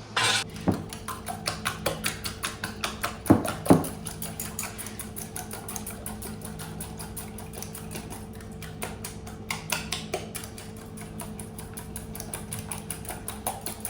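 A steady machine hum under rapid, irregular clicking and clatter. The clicking is densest in the first few seconds, with two louder knocks about three and a half seconds in.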